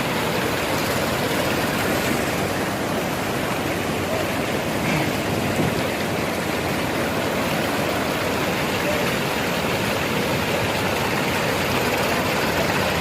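Steady rush of falling water from a waterfall, with a tractor engine running beneath it.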